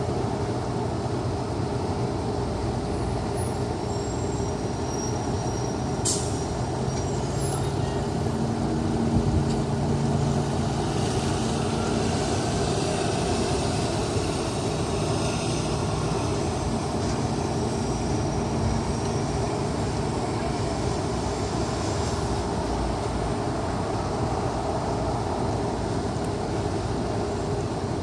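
Steady hum of city traffic, with a heavier vehicle's engine swelling and fading in the middle.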